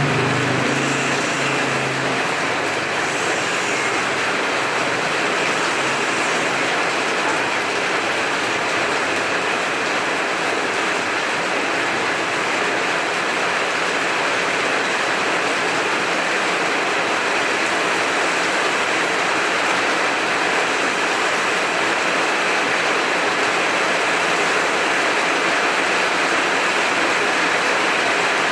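Heavy rain falling steadily, an even hiss with no let-up. A low rumble of thunder dies away in the first couple of seconds.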